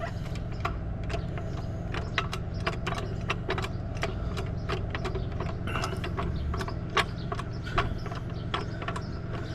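Irregular metallic clicks and clanks as a support is worked back up under the car, over a steady low hum.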